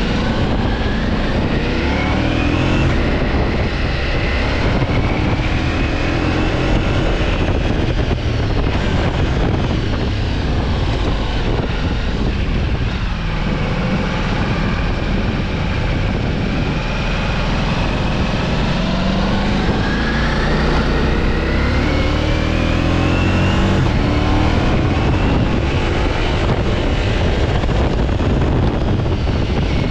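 Ducati Multistrada V4 S engine heard from the bike while riding, rising in pitch again and again as it accelerates up through the gears. Wind rushes steadily over the microphone throughout.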